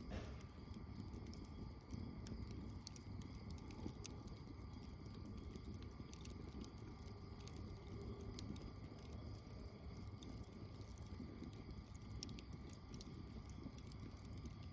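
Faint campfire crackling: scattered small sharp pops and snaps over a low steady rumble.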